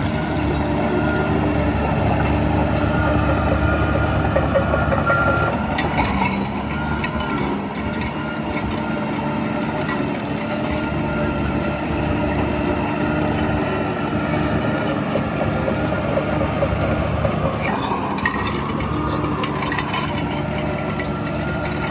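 Heavy diesel earthmoving machinery running steadily, with a few short metallic clanks about six seconds in and again near the end.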